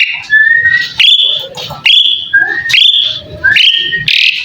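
Asian pied starling (jalak suren) singing a series of loud whistled notes, about one a second, each sliding up and then held steady, with softer chattering between them.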